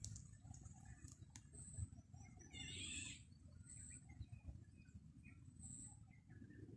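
Faint outdoor ambience of birds chirping, with a short high note repeating about every two seconds and a brief burst of chirping about three seconds in, over a low rumble.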